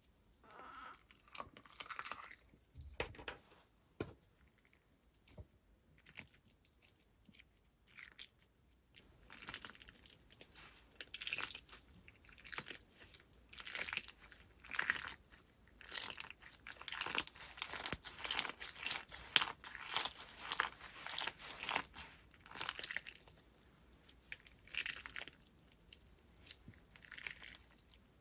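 Slime being squished, pressed and stretched by hand, giving strings of short crackling and clicking sounds; they come sparsely at first and are busiest and loudest in the middle.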